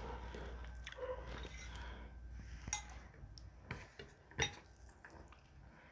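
Utensils clinking and tapping against a plate while eating: a few scattered sharp clicks, the loudest about four and a half seconds in.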